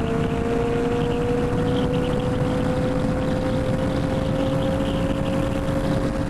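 Royal Enfield Himalayan 450's single-cylinder engine running steadily while riding, with wind and road noise; its note rises slightly as the bike gently picks up speed.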